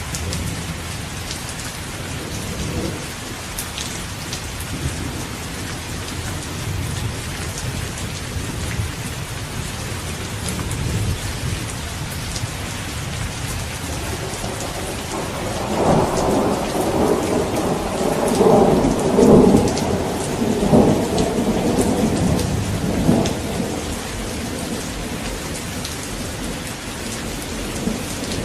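Steady heavy rain with droplets pattering on surfaces. A roll of thunder swells in about halfway through, rumbles in several waves for around eight seconds, then fades back under the rain.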